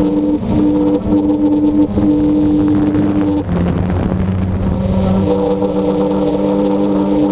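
Blade 350QX quadcopter's electric motors and propellers running in flight, a steady hum of several tones at once. About three and a half seconds in, the tones shift as the motors change speed.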